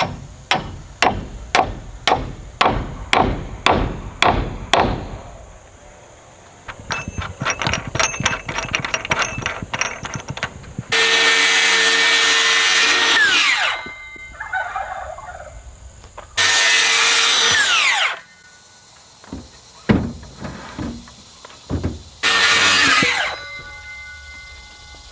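About ten sharp hammer blows, about two a second, then a quicker run of lighter taps. A power drill/driver then runs three times, driving timber lock screws into wood: about two and a half seconds, then a second and a half, then a second, each run dropping in pitch as it stops.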